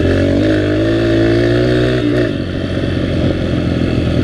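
Dirt bike engine running under throttle, its pitch rising over about the first two seconds, then dropping off as the throttle eases.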